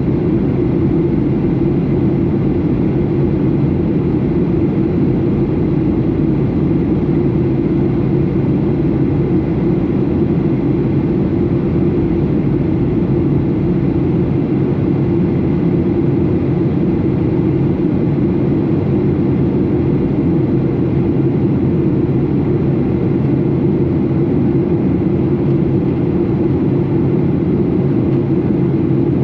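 Steady cabin drone of a Boeing 737 in flight: engine and airflow noise, even and unchanging, heard from inside the passenger cabin.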